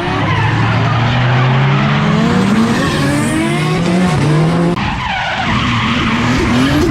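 A drift car's engine revving hard, its pitch climbing and dropping as it is held on the throttle, over tyres skidding and squealing through a slide. Near the end the sound changes abruptly to another pass of the same kind.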